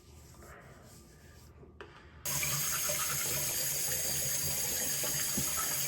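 Quiet for about two seconds, then a tap starts suddenly and water runs steadily into a sink.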